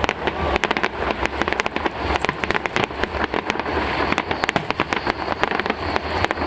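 Aerial fireworks going off in quick succession: many sharp bangs and crackles a second over a low rumble.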